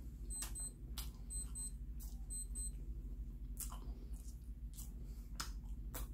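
A man chewing a pastry, with short crackling clicks from his mouth. Over the first three seconds an electronic device beeps: three pairs of short high pips, one pair a second, then it stops.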